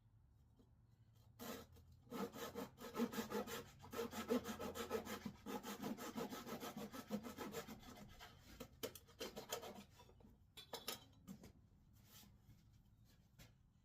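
Quick, even back-and-forth strokes of a hand tool rubbing against wood, running for about eight seconds and then stopping, followed by a few separate scrapes.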